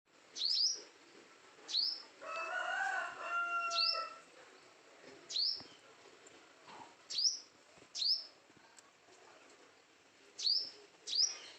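Bird calls: short, sharp high notes sweeping down in pitch, repeated about eight times at irregular intervals. About two seconds in comes a longer, lower call that rises and falls and then holds steady for about two seconds.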